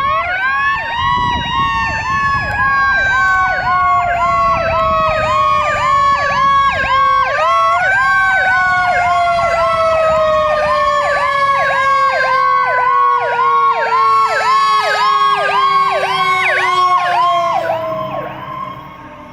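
Fire engine responding with two sirens sounding together: a fast yelping siren repeating about two to three times a second, over a second siren wail that climbs to its peak about a second in and then winds slowly down in pitch, lifting briefly about halfway through. Both fade near the end as the engine moves away.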